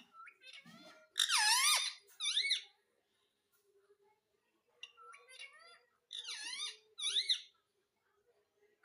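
Rose-ringed parakeet calling: two bouts of loud, high squawks with quick up-and-down pitch swoops, the first about a second in, the second from about five to seven and a half seconds in.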